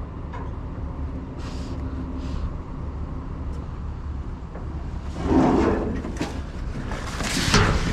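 Steady low hum of a running vehicle, with two louder bouts of clattering and rustling about five and seven seconds in.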